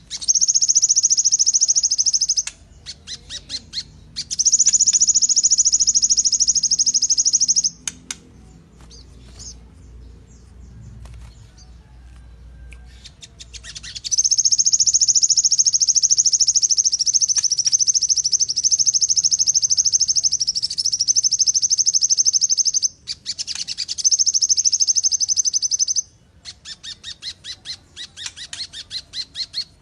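A songbird singing long, rapid, high-pitched trills, each held for several seconds. The longest runs nearly nine seconds. Short stuttering note series fill the gaps, and a quicker train of separate notes comes near the end.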